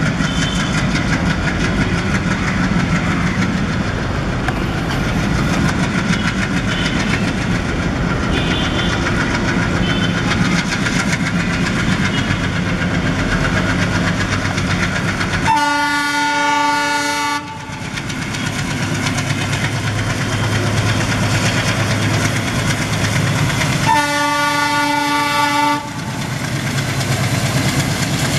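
ALCO diesel locomotive running with a steady engine and rail noise, sounding its multi-tone horn twice, each blast about two seconds long and the second some eight seconds after the first.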